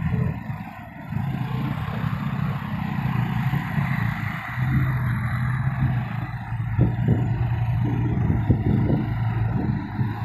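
Six-wheel dump truck's diesel engine running steadily, with a run of clattering knocks in the second half.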